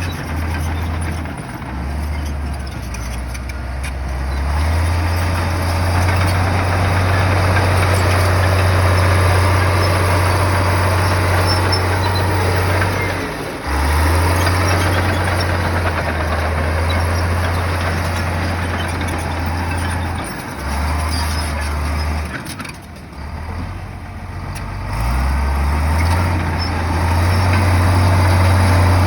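Heavy bulldozer's diesel engine working under load, with a deep drone that shifts in pitch as the load changes. The engine drops back briefly about 13 seconds in and again around 22–25 seconds before pulling hard again. Dense mechanical clatter rides over it throughout.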